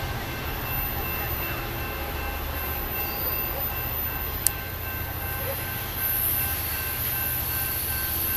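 Double-deck passenger train running away into the distance, a steady low rumble, with one sharp click about four and a half seconds in.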